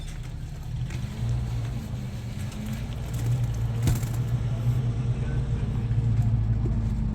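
An engine running steadily at a low pitch, rising a little about a second in, with a single sharp knock about four seconds in.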